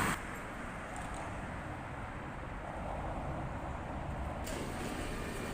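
Muffled city traffic noise, a low rumble and hiss with no distinct event; the sound opens up brighter about four and a half seconds in.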